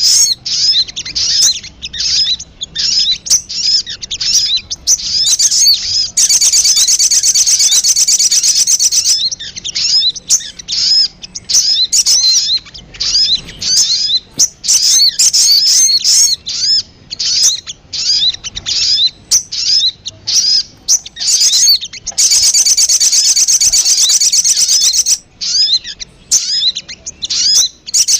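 Little spiderhunter (sogon) calling: a busy run of short, sharp, high chirps, broken twice by a long, fast, buzzy trill lasting about three seconds.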